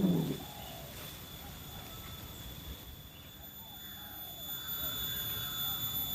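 Faint, repeated short calls of white-breasted waterhen, following the tail of a louder call with falling pitch at the very start. A thin steady high tone runs underneath.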